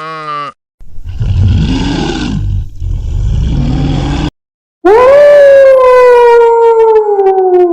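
Animal sound effects: a low, rough growling roar for about three seconds, then after a short gap one long, loud howl that rises at first and slowly falls in pitch.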